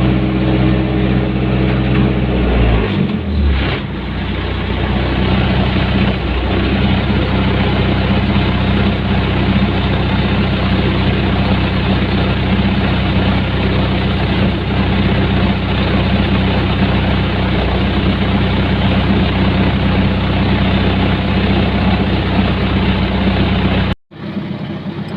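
Hyundai excavator's diesel engine running, its pitch dropping about two to three seconds in and then holding steady. The sound cuts off suddenly near the end.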